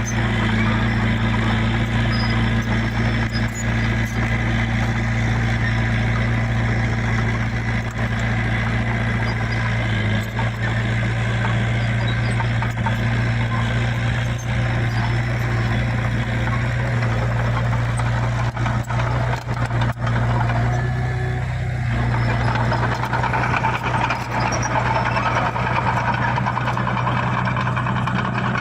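Heavy diesel engine of earthmoving machinery running steadily at an even speed, with a brief change in its note about three quarters of the way through.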